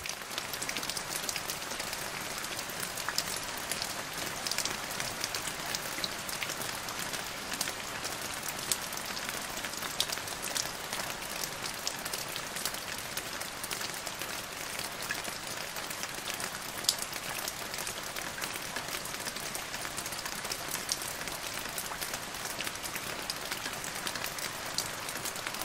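Steady rain falling on wet pavement and puddles: an even hiss with sharp taps of single drops scattered through it.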